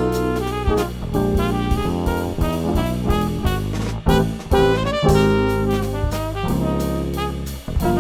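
Jazz quartet playing: trumpet melody over double bass, guitar and drum kit, with sharp drum hits and cymbals throughout.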